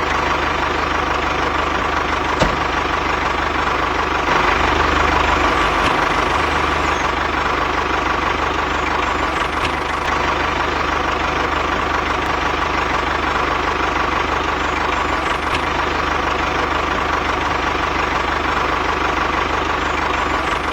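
A small engine running steadily at a constant speed, with a single sharp click about two and a half seconds in and a slight rise in level about four seconds in.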